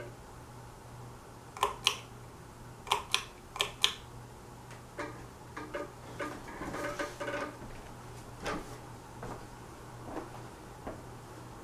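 Evergo top-mount spinner ceiling fan motor running with a faint steady hum, as it is switched over to high speed in reverse. Sharp clicks come in a run about two to four seconds in, followed by softer knocks and rattles.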